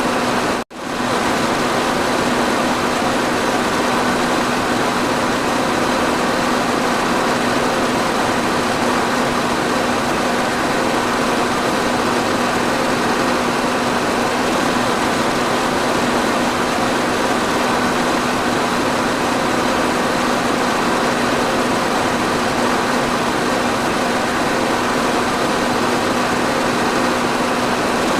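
Electric fan running steadily: an even rush of air over a constant low motor hum. It cuts out for a split second just under a second in, then carries on unchanged.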